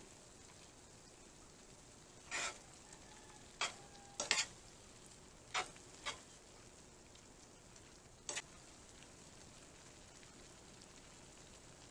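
Mushrooms cooking in a small pot: a faint steady sizzle, broken by about six short clatters.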